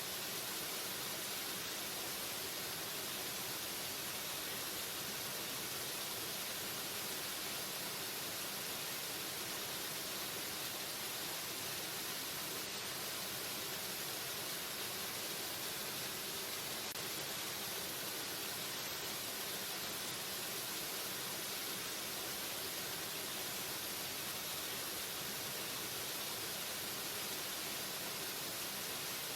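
Waterfall: steady, unbroken rush of falling water, an even hiss with most of its energy in the high end.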